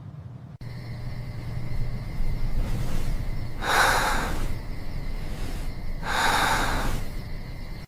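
Two loud breathy gasps, one about four seconds in and a longer one about six seconds in, over a steady low hum.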